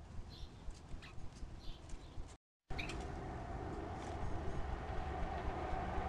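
A few faint, short bird chirps over a low outdoor rumble. About two and a half seconds in, the audio cuts out for a moment; it comes back as a steady, louder rumble with a hum in it that slowly grows.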